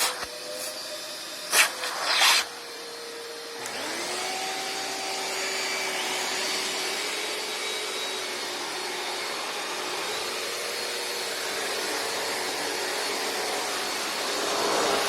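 Several vacuum cleaners running together with a steady whine. Two loud bangs come in the first few seconds, then about three and a half seconds in another vacuum motor is switched on and spins up, its whine rising to join the rest.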